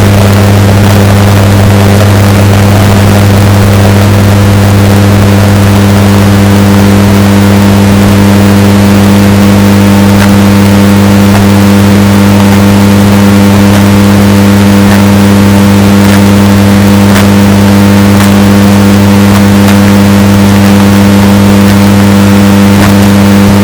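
Washing machine running with a steady, unchanging drone, heavily bass-boosted and amplified to the point of distortion. A low hum with overtones dominates, with a few faint ticks over it.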